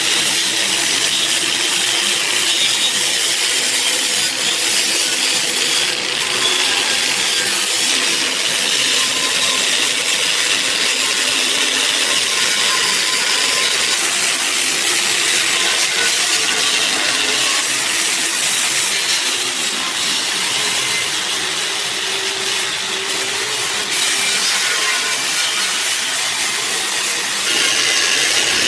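A power tool working on metal, a steady, loud hiss-like grinding noise that holds without a break.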